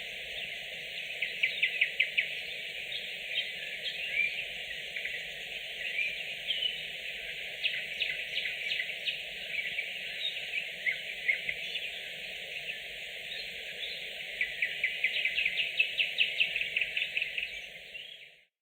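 Nightingale singing at night: rapid trills and repeated notes in phrases, the loudest run of fast strokes near the end, over a steady hiss of background noise, then fading out.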